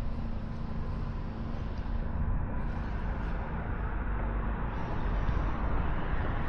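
Steady outdoor road traffic noise, an even rumble with a hiss and no single event standing out.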